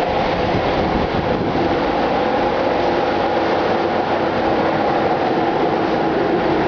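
Loud, steady drone of a ship's engine-room machinery running, a diesel motor vessel's engines with a hum of several steady tones over the noise.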